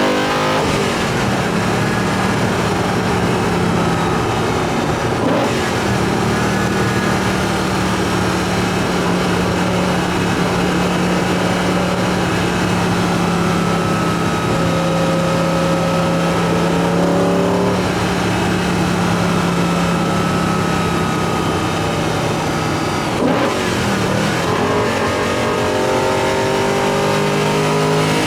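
BMW E90 M3's S65 V8 drawing air through an Eventuri carbon intake plenum while driving: a steady, even drone for most of the time, with brief breaks in pitch about five seconds in and again near the end, after which the engine revs up with rising pitch.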